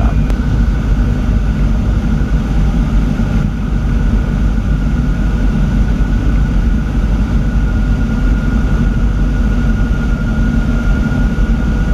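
Cessna 182's piston engine and propeller at reduced power on final approach, a steady drone heard inside the cabin, with a thin steady whine above it.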